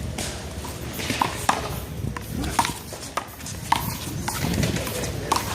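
A rubber handball being struck by hand and bouncing off the wall and court in a one-wall handball rally: a string of sharp, irregular smacks, about ten in a few seconds.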